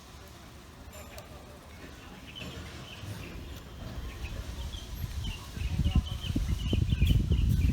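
Small birds chirping in quick repeated notes. A low, uneven rumble builds from about halfway and becomes the loudest sound near the end.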